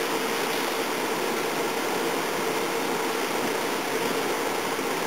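Blower fan running steadily, forcing air into a wood fire: a constant rushing noise with a steady hum.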